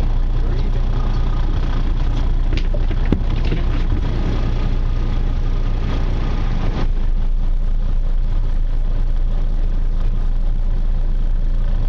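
Charter boat's engine running steadily with a low drone, under a hiss of wind and water. There is one sharp click about three seconds in, and the hiss drops suddenly about seven seconds in while the engine drone goes on.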